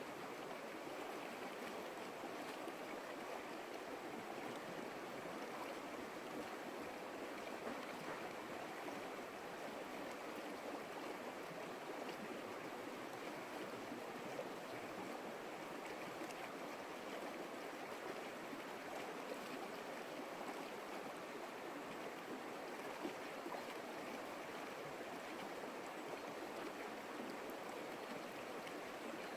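Creek water flowing over rocks: a steady, even rushing and babbling.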